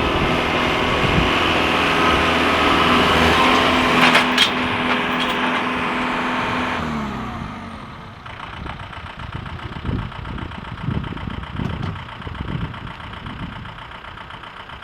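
Tractor engine running hard, then throttling down about seven seconds in and settling to a quieter, uneven idle. A few sharp knocks sound about four seconds in.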